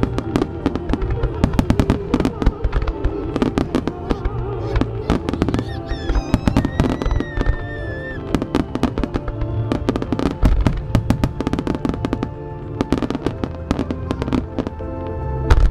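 Starmine fireworks barrage: a rapid, irregular stream of bursting shells and crackling, over music from loudspeakers, with a heavy bang near the end.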